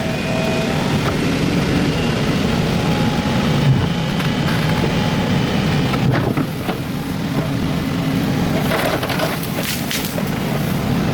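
Excavator's diesel engine running steadily under load, with scattered knocks and cracking as the bucket breaks through earth, rock and wood, loudest around the middle and near the end.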